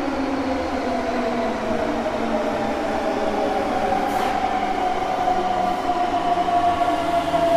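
Multirotor drone's propellers whining in flight: several steady tones that drift slowly, the main one rising a little and then easing down.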